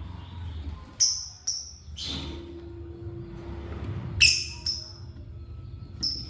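Lovebirds giving six short, shrill chirps, in pairs and singly, the loudest about four seconds in, over a low steady hum.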